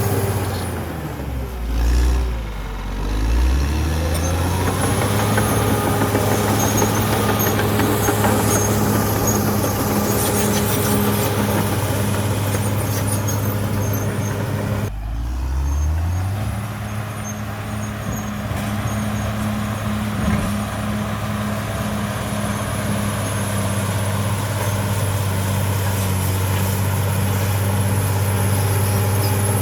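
CAT D6R XL bulldozer's diesel engine running steadily. Its pitch sags and recovers twice, about a second in and again around fifteen seconds.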